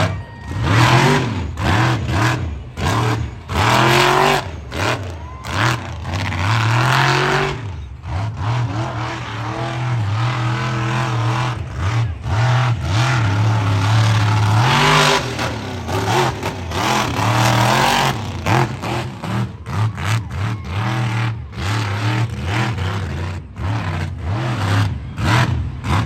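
A loud vehicle engine revving hard again and again, its pitch surging up and dropping back over and over.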